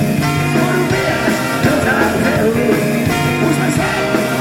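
A rock and roll band playing live, with steady bass notes under moving melodic lines.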